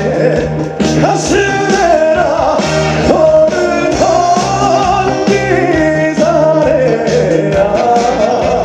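A male trot singer singing live with a backing band, a wavering vocal line over a steady beat and bass.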